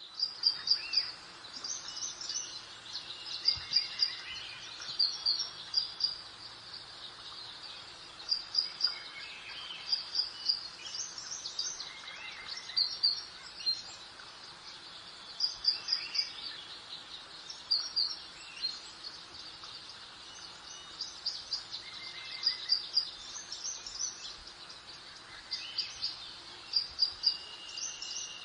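Songbirds chirping, in short groups of quick high notes repeated every second or two, over a soft steady hiss of breeze.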